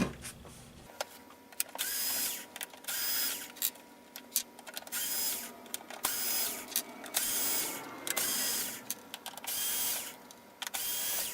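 Electric screwdriver running in short bursts of about a second each, about eight in all, backing out the screws on the bottom of a water ionizer.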